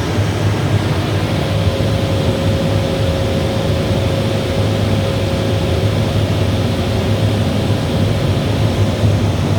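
Steady, loud running noise of the machinery around a Bosch steam boiler, with a deep hum and a faint steady whine that joins about a second in.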